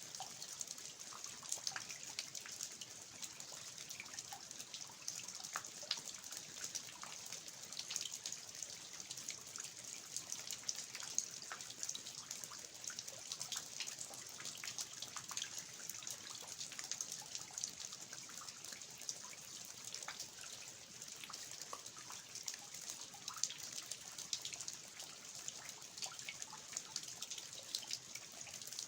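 Steady rain falling in a garden, with water dripping from the eaves: a constant hiss scattered with many sharp, irregular drops.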